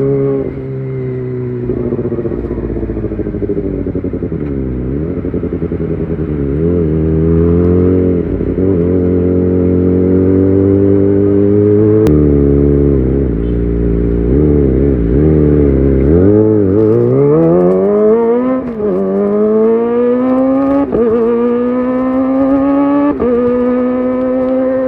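Kawasaki ZX-25R's 250 cc inline-four running through a Leovince GP Evo high-mount exhaust. The revs rise and fall in short blips at first, then from about two-thirds of the way in they climb hard in steps with quick dips between them, like upshifts under acceleration.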